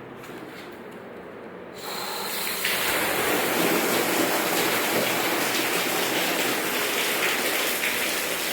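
Running water gushing steadily. It starts about two seconds in and then holds at a steady level.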